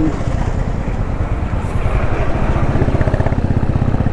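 Motorcycle engine running steadily while riding along a road, its low pulsing beat becoming more pronounced about halfway through, with wind and road noise.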